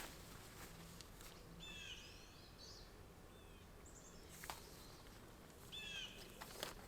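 Faint bird calls: a few short chirping phrases, repeated about three times, against near silence, with a couple of faint clicks.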